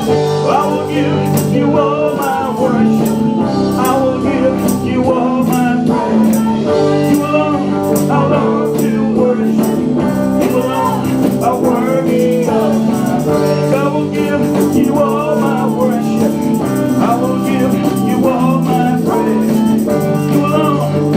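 Live band music with a steady beat: held chords and a wavering melody line over regular percussion strokes.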